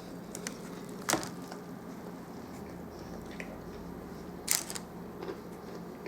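Someone eating a large sandwich: quiet chewing and handling, with two short sharp crackles, one about a second in and one about four and a half seconds in, over a steady low hum.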